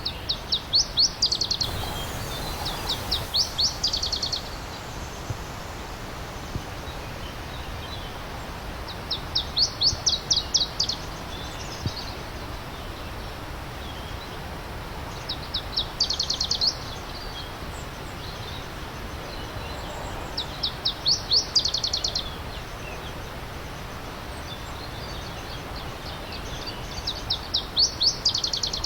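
A songbird repeatedly sings a short, fast trill of sharp, high notes, each lasting about a second and coming roughly every five or six seconds. Under it, a stream runs with a steady rushing sound.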